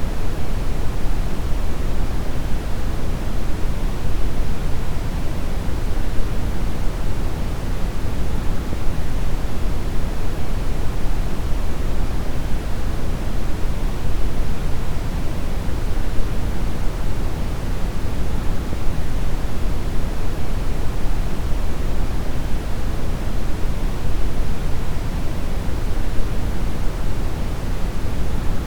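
Steady brown noise: a deep, even rumbling hiss with most of its energy low down, unchanging throughout.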